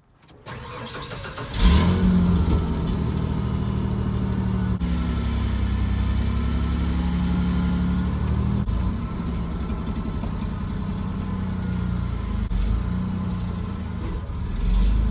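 A Ford OBS F-150's 4.9-litre (300) inline-six engine starts, catching suddenly about a second and a half in, then runs steadily under way, its pitch stepping a few times as it revs.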